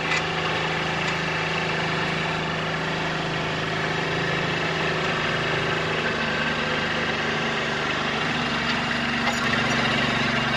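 Small Kubota compact tractor's diesel engine running steadily, with a slight change in its note about three-quarters of the way through.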